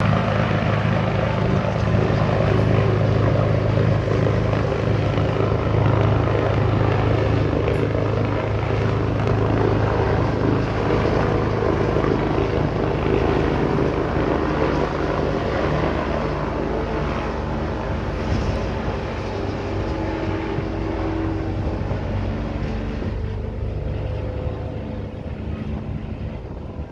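Eurocopter EC145 twin-turbine helicopter taking off, its rotors and turbines running with a steady low rotor tone. The sound is loud at first and fades gradually over the last ten seconds or so as the helicopter moves away.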